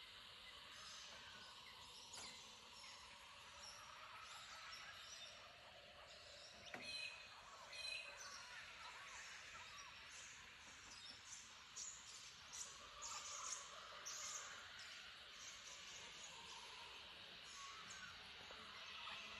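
Faint bird calls: many short chirps and brief whistled notes scattered over a steady high hiss, a little louder around seven to eight seconds in and again between twelve and fourteen seconds.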